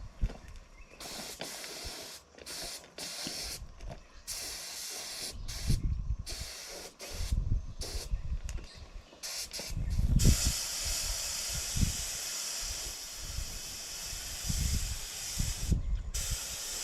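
Spray paint hissing as red oil-based primer goes onto steel posts: several short passes, then one long steady spray for the last six seconds or so. Low thumps sound underneath.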